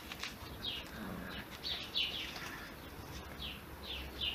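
Birds chirping: a quick series of short, high chirps, each sliding down in pitch, repeating again and again.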